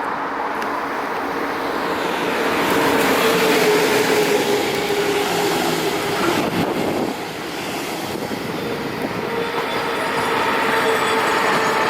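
A train running along the tracks at a station: a continuous rail rumble with steady whining tones, one of which dips in pitch about six to seven seconds in. It is loudest about four seconds in.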